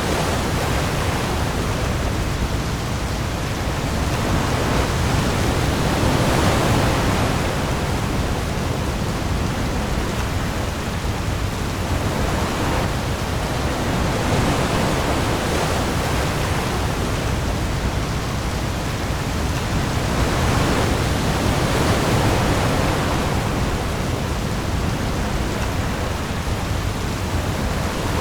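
Heavy rain falling on the sea with waves: a dense, steady hiss over a deep low rumble, swelling and easing gently every seven or eight seconds.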